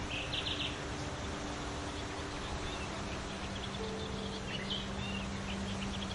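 Songbirds chirping outdoors: a quick run of chirps just after the start and scattered chirps in the second half, over steady background noise with a faint low hum.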